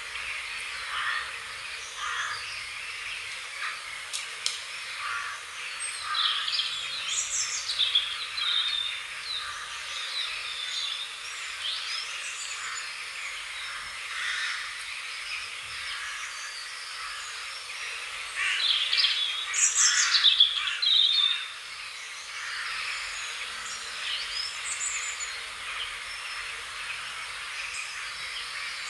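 Several small birds chirping and singing, with quick rising and falling notes and two louder bouts of rapid chirping, about a third of the way in and again past the middle.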